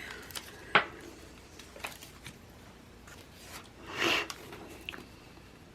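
Planner stickers and paper being handled: a sharp tap about a second in, a few light ticks, and a brief papery rustle about four seconds in.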